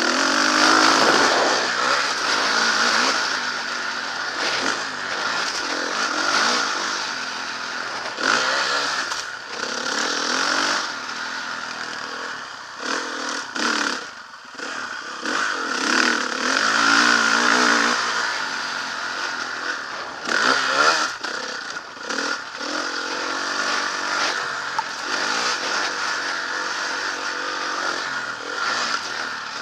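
Motocross bike engine being ridden hard, its revs rising and falling again and again through gear changes and throttle, with a steady rush of wind noise and some clatter over it.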